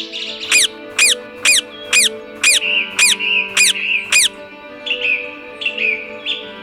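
A bird calling loudly in a fast series of about eight sharp, downward-sweeping calls, roughly two a second, then a few softer chirps, over steady background music.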